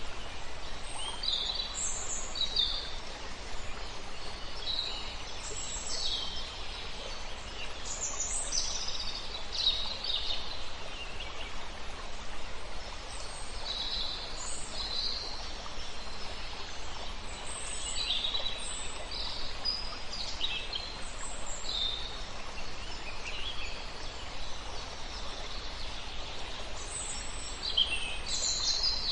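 Songbirds singing and chirping over a steady rush of river water, with short high calls and phrases coming every second or two throughout.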